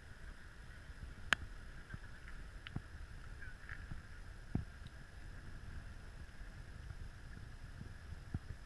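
Faint steady whine of a radio-controlled model boat's motor over a low rumble, with a few sharp clicks, the strongest about a second in.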